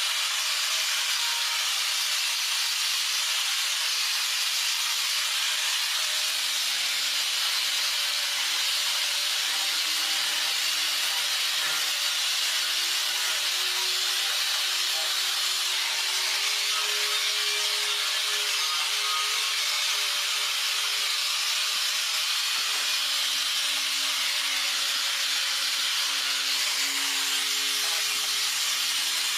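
Steady, unbroken hissing noise with no strokes or pauses.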